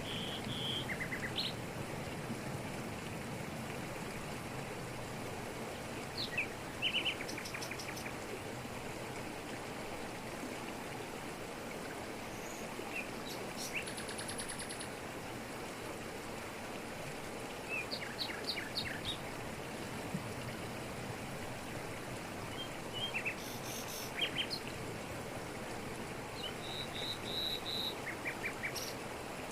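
Jungle waterfall cascading over rocks, a steady rush of water, with birds calling every few seconds in short chirps and quick runs of repeated notes.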